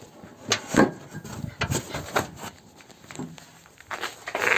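Irregular knocks, scrapes and rubbing from someone moving about and handling things on a roof, with a louder rustle near the end.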